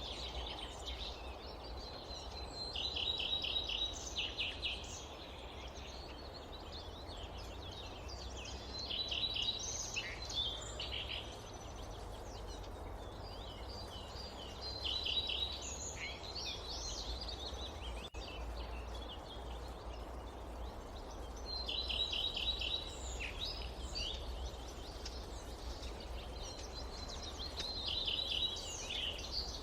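A songbird singing a short, rapid trilled phrase about every six seconds, five times in all, over a steady low background rumble of forest ambience.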